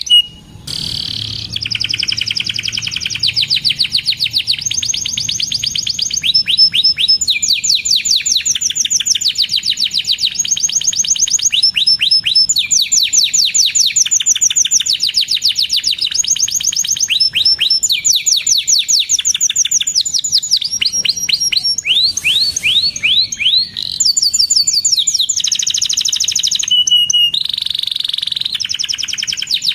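Domestic canary singing a long, continuous song of rapid trills, each a quick run of repeated chirp notes, broken by short held whistles. There is a brief pause just after the start.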